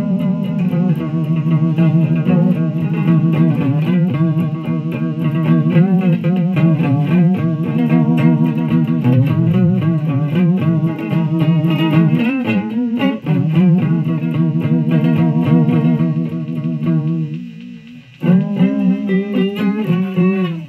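Electric guitar played through an effects pedal: sustained notes with string bends and vibrato, fading out, then a fresh chord struck a few seconds before the end that rings and is cut off abruptly.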